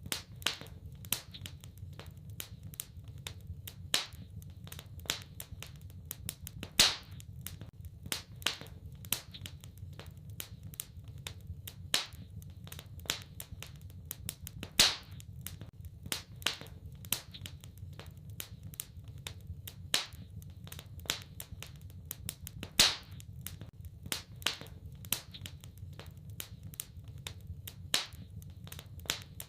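Wood fire crackling in a fireplace: irregular small snaps with a sharper, louder pop every few seconds, over a low steady rumble.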